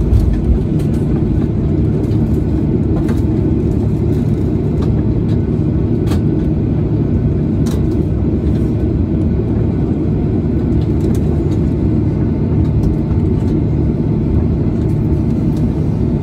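Steady, loud low rumble inside a Boeing 737-800 passenger cabin, the airliner's engines and airframe heard through the fuselage, with a few faint clicks scattered through it.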